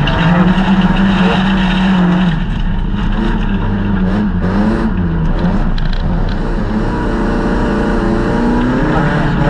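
Folkrace car's engine heard from inside its cabin, running hard. The engine note drops about two seconds in as the car slows for a corner, rises and falls through the turn, and climbs again near the end as the car accelerates.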